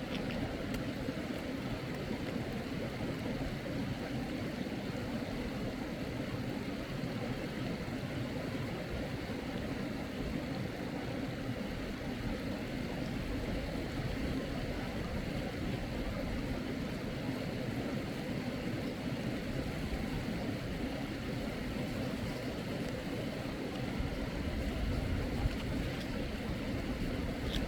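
Steady rushing of a flowing mountain stream, an even low-heavy noise that does not change.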